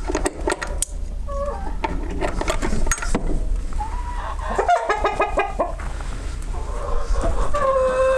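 Chickens clucking, with a quick run of repeated calls about five seconds in and a longer held call near the end, among scattered knocks and clicks.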